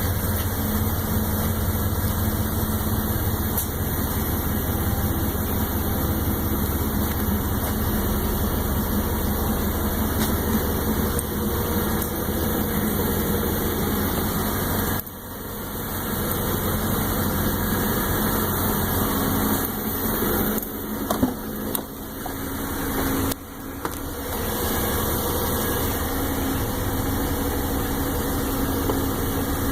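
1996 Chevy pickup truck's engine idling steadily, dropping suddenly in loudness about halfway through, with a few uneven knocks and dips a little later.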